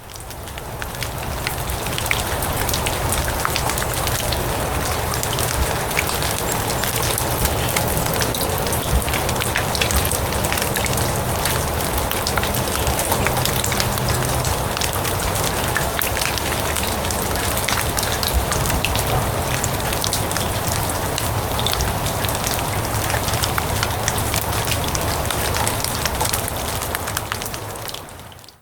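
Steady rain falling on grass, an even hiss full of small drop ticks with a low rumble underneath. It fades in over the first couple of seconds and fades out just before the end.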